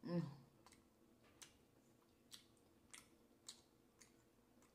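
A person chewing barbecue chicken wing meat, with soft wet smacking clicks about every half second to second. It opens with a brief hummed voice sound, the loudest moment.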